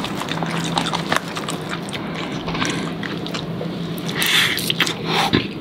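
Close-miked chewing of takoyaki by two people: wet mouth smacks and many small clicks, with a louder burst about four seconds in, over a steady low hum.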